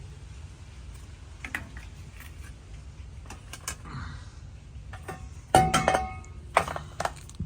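Scattered light knocks and clinks of hard objects, then a loud clattering clink about five and a half seconds in that rings briefly, followed by two or three more sharp knocks, over a low steady hum.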